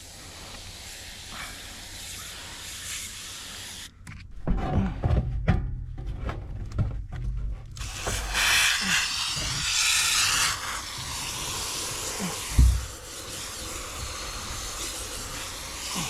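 Hand pump garden sprayer hissing as it sprays rinse water onto an HVAC evaporator coil and drain pan. A run of low thumps and knocks comes around the middle. A stronger hiss of spray follows for a couple of seconds, then a single thump.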